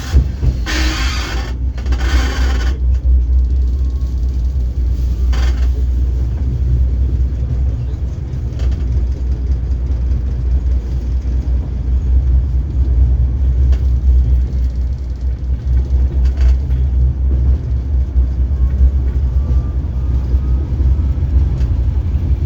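Ust-Katav 71-628 tram running with a steady low rumble. Two short bursts of hiss come in the first three seconds, and a faint, thin rising squeal comes near the end: the creaking the tram is filmed for.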